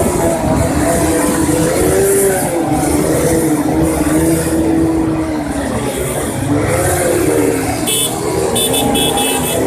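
Motorcycle engine running while riding, its pitch slowly rising and falling with the revs, with wind buffeting the microphone.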